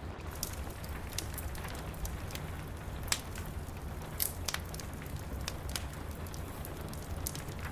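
Wood fire crackling with scattered sharp pops, two louder ones about three and four seconds in, over a steady hiss of rain and a low rumble.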